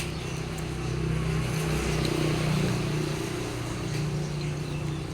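Steady low hum of a motor vehicle's engine running, with a sharp click right at the start.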